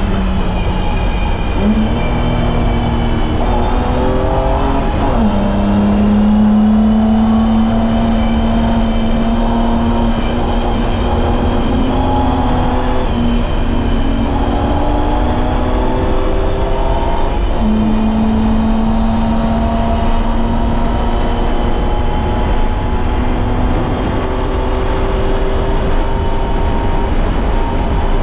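BMW E30's M20B25 inline-six engine running hard at track speed, its pitch held steady for long stretches, climbing and then dropping abruptly about five seconds in with a gear change, and stepping up again twice. Steady road and tyre noise lies under it.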